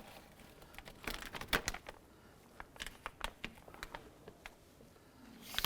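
Plastic door water shield being peeled off its sticky adhesive, giving faint, irregular crinkles and small sticky clicks.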